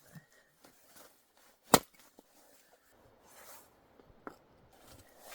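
Wood being chopped with a hatchet: one loud, sharp strike on wood about two seconds in, and a lighter knock later, while kindling is split for a campfire.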